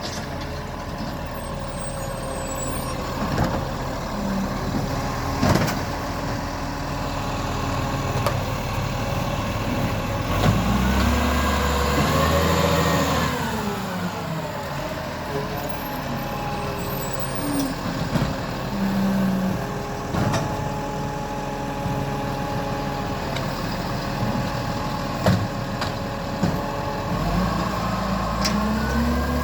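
Garbage truck's diesel engine running, revving up for a few seconds around the middle and easing back down. There are a few short sharp clicks or hisses along the way.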